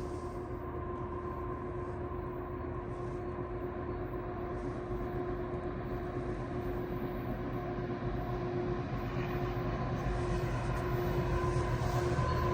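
Long CN intermodal freight train rumbling, growing steadily louder, with a steady hum held through it.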